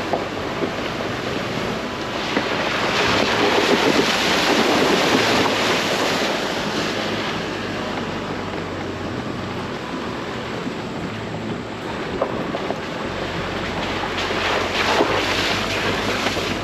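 Pickup truck driving on an off-road trail: steady tyre and road noise over a low engine hum, swelling a few seconds in and again near the end.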